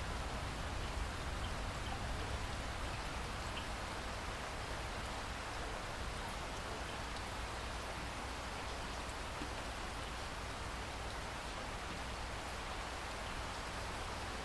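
Steady rain falling, an even hiss with occasional faint drop ticks over a low rumble.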